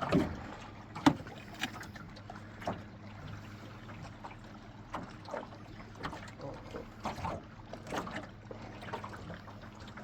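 Scattered knocks and clatter in a small fishing boat, over a low steady hum and faint water.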